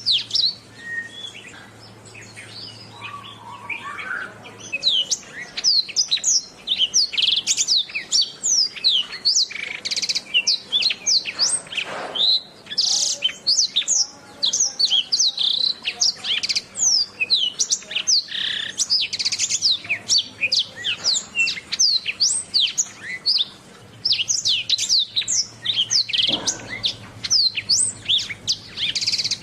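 Domestic canary singing: a fast, continuous run of high chirps, trills and quick sweeping notes, sparse for the first few seconds and then dense.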